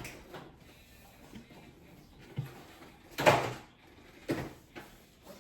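Kitchen handling thuds: a light knock about two and a half seconds in, a louder thud just after three seconds, and another knock about a second later.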